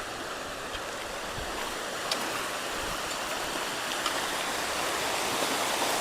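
Rain-swollen creek water rushing through a culvert in a steady rush that grows slightly louder.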